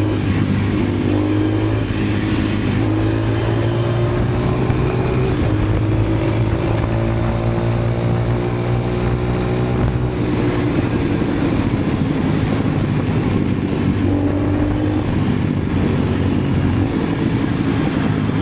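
KTM LC4 640's single-cylinder four-stroke engine running through twin GPR silencers with the dB-killer baffles removed. It is loud and steady, and its pitch slowly rises and falls for a few seconds in the middle.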